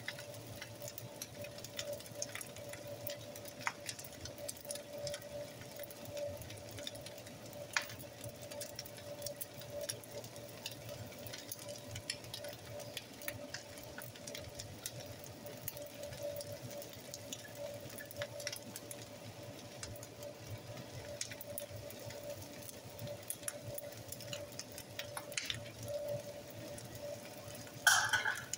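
Chicken fried rice frying quietly in a skillet: faint scattered crackles over a steady hum. A brief louder scrape near the end.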